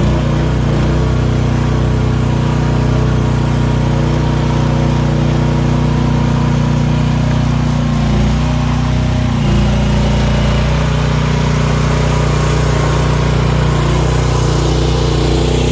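The 15 hp gasoline engine of an AGT H12R mini excavator runs steadily, with a slight shift in its tone about nine seconds in.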